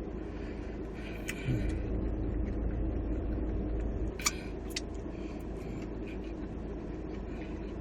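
Steady low rumble with a constant hum, like a vehicle engine running, and two sharp clicks about four and a half seconds in.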